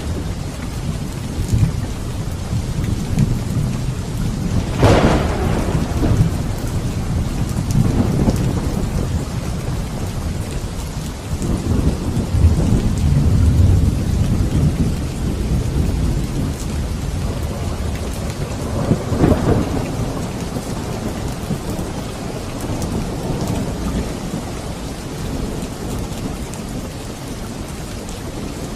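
Thunderstorm: steady rain with rolling low thunder, and two sharper thunderclaps, one about five seconds in and another near twenty seconds.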